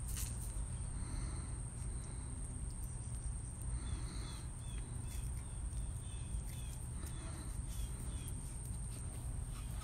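Outdoor ambience: a bird chirping a run of short repeated notes, about two a second, from about four seconds in to near the end, over a steady high-pitched insect-like whine and a low rumble.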